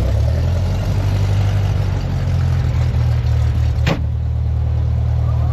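Light aircraft piston engine that has just started, running at a steady idle with its propeller turning. One sharp click about four seconds in.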